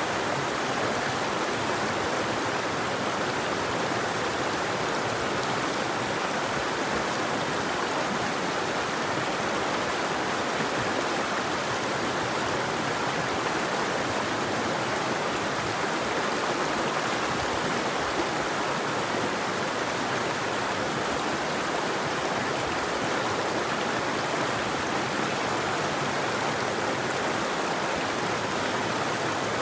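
River water flowing, a steady rushing with no birdsong.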